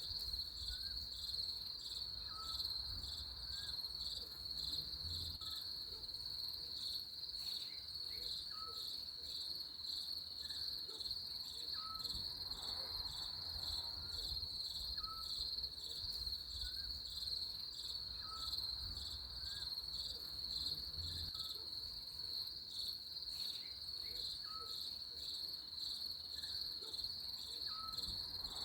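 Crickets chirping in a steady, rapidly pulsing chorus. Underneath, a faint short lower call repeats about every couple of seconds.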